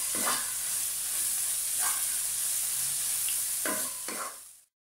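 Red chilli sambal with small fried anchovies sizzling in oil in a non-stick wok while it is stirred with a wooden spatula, with a few scraping strokes over the steady hiss. The sambal is being cooked down until the oil separates and it turns dry. The sound fades out near the end.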